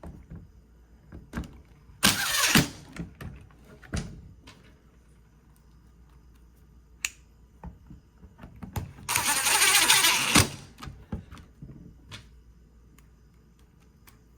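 A power screwdriver or drill driving screws into the hammer drill's handle housing, in two short runs, the second longer. Clicks and knocks of parts being handled come between them.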